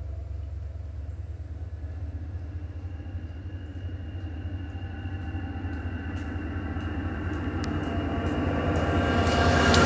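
CTrail passenger train, led by diesel locomotive 6699, approaching and growing steadily louder. Its engine and rail noise carry a steady low hum and a steady high whine, with scattered sharp clicks from about six seconds in.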